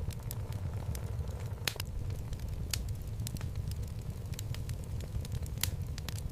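Wood fire burning in a home fireplace: a steady low rumble of flames with frequent, irregular sharp crackles and pops from the burning logs.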